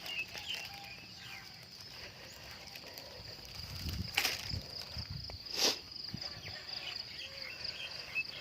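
A steady, high-pitched insect trill, crickets or similar, with faint short chirps over it. A few low thuds come around the middle, with two sharp clicks about four and five and a half seconds in.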